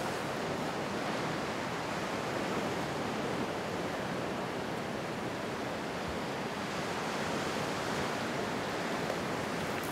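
Beach ambience: a steady, even rush of sea surf and wind.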